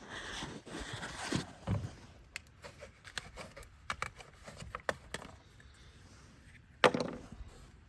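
Hand work with tools and parts: rustling and scraping for about two seconds, then scattered light clicks and knocks, with one sharp knock near the end.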